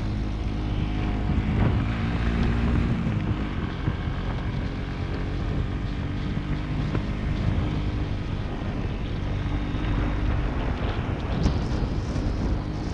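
Motorcycle engine running while riding, with wind noise on the microphone; the engine note drops about three seconds in.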